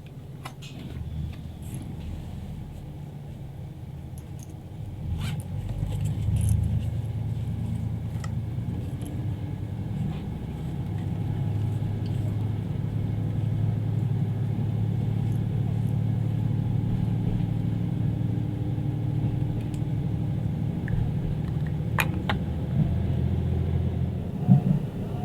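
Diesel railcar engine running with a steady low drone, growing louder about five seconds in and again around eleven seconds as it works harder, with a couple of sharp clicks near the end.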